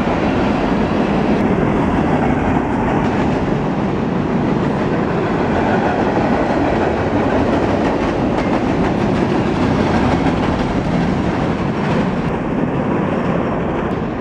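Freight train cars rolling past at close range: a steady rumble with the clatter of steel wheels on the rails.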